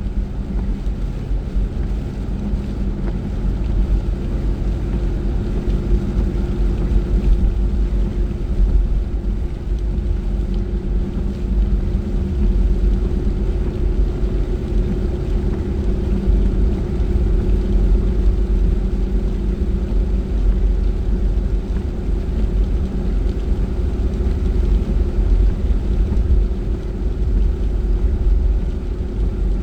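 Car driving at a steady speed, heard from inside the cabin: a steady low engine and road rumble with a constant hum, over the hiss of tyres on a wet road.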